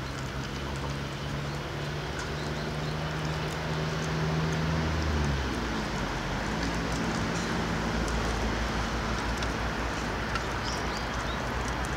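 A steady low motor hum that shifts pitch about five seconds in, with faint scattered clicks.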